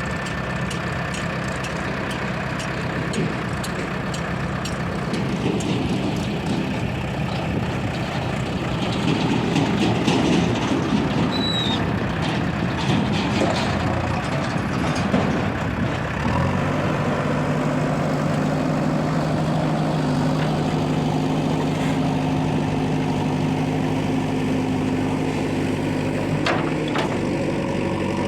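Diesel engines of a JCB 3DX backhoe loader and Mahindra tractors running. There is rattling and clatter in the middle stretch while the machine works, then the engine settles into a steady, even note a little past halfway.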